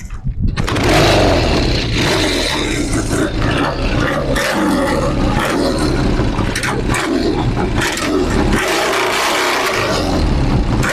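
1969 Triumph Tiger's parallel-twin motorcycle engine being kick-started: it catches about half a second in and then keeps running, loud and a little uneven, on the first attempt.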